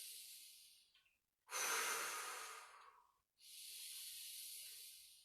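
A man's slow, deep yoga breathing: three long breaths, the middle one louder and fuller than the two around it.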